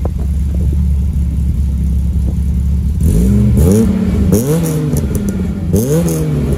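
VW Golf Mk1 Cabriolet's supercharged G60 four-cylinder, just started, idling and then revved in three quick blips, the revs climbing and falling back each time, about three, four and five and a half seconds in.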